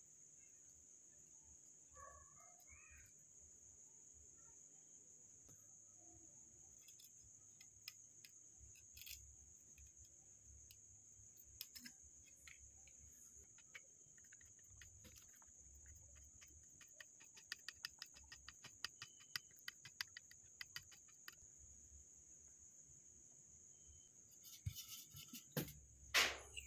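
Near silence with a faint, steady high-pitched chirring in the background. Scattered small clicks sound over it, with a quick run of light ticks about two-thirds of the way in and a few louder knocks near the end.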